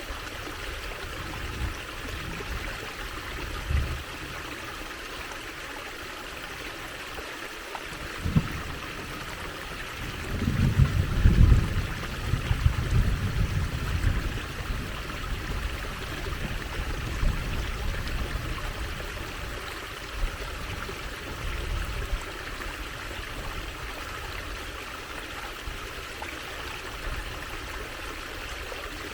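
Water trickling in a stream: a steady splashing hiss. About ten seconds in, a deeper low rumbling rises for several seconds, along with a few short low thumps.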